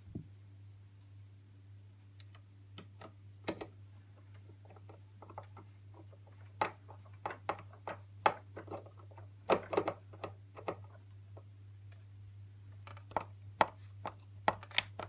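Screwdriver driving the handle screw into a Hoover Turbopower upright vacuum cleaner: scattered light clicks and taps of the tool on the screw and plastic body, coming thicker in the second half, over a steady low hum.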